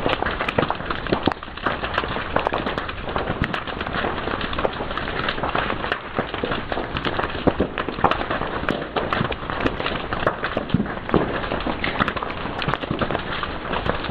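Fire crackling and popping: many sharp, irregular pops over a steady hiss.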